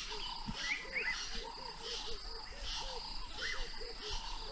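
A chorus of birds calling together: many short, arched notes repeating several times a second, with higher chirps and rising notes over them. These are the alarm calls that animals are raising at lions close by.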